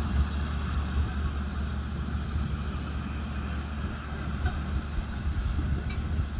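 Kubota M125X tractor's diesel engine running steadily at working speed while driving a baler, a constant low hum.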